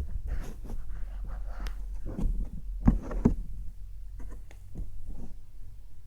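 Slime worked by hand, making a quick string of sticky clicks and squelches, with two louder smacks about three seconds in.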